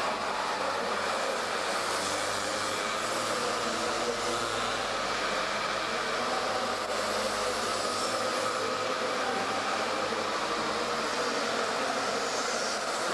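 Mini motorbike engines running on a race track, a steady buzzing drone whose pitch shifts slightly as the bikes rev.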